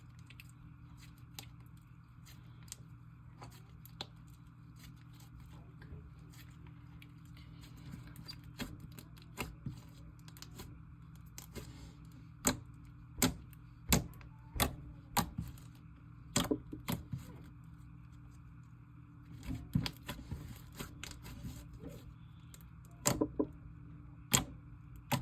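Slime being mixed and squeezed by hand, a clay slime being worked in: a string of sharp clicks and pops, sparse at first and coming in quick clusters through the second half, over a faint steady hum.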